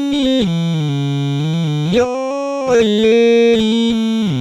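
A pitch-corrected vocal sample, retuned in Melodyne into a synth-like melody, holding one vowel and sliding between sustained notes, dropping low about a second in, rising again near the middle and stepping down near the end.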